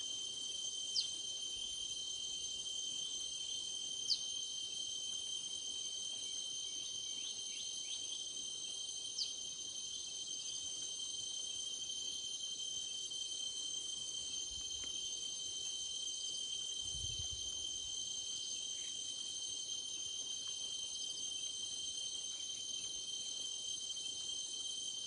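A steady, high-pitched chorus of insects runs throughout. Over it come a few short, sharp bird calls, the three loudest about 1, 4 and 9 seconds in, with softer chirps in between during the first ten seconds.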